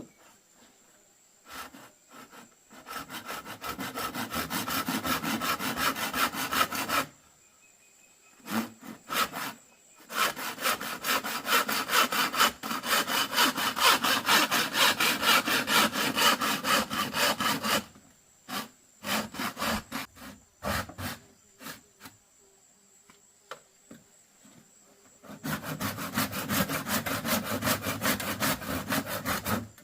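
Hand saw cutting through bamboo in three bouts of quick back-and-forth strokes, with short pauses between them.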